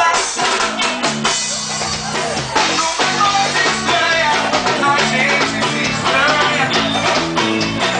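A band playing upbeat music with drum kit and guitar.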